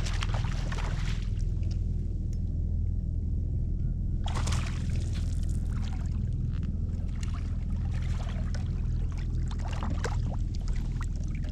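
A hooked fish splashing at the water's surface beside a kayak in three short bursts, over a steady low rumble.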